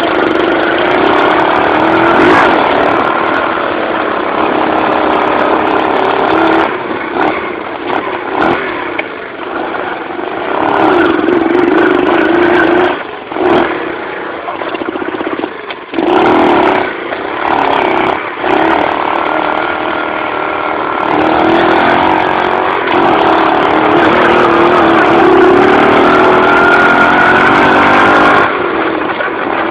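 Dirt bike engine riding under changing throttle, its pitch rising and falling as it revs up and eases off, with several short drops off the throttle about a quarter to two-thirds of the way in.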